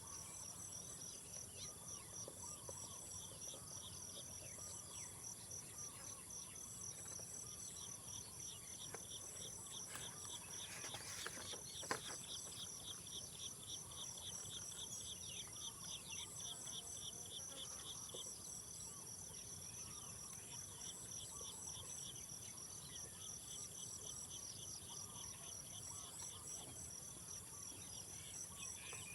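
Chorus of insects such as crickets: a steady high-pitched drone with several layers of fast, evenly pulsed trills. A single short click comes about twelve seconds in.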